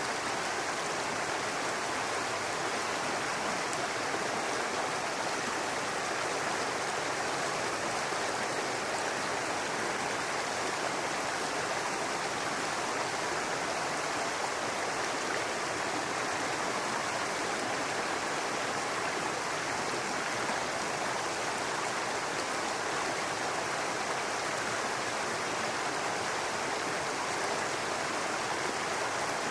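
A babbling brook: water running steadily over stones.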